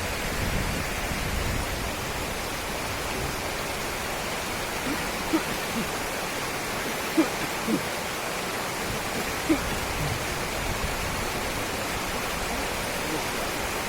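Steady rushing water noise from heavy rain and floodwater, with a few brief faint pitched sounds over it about midway.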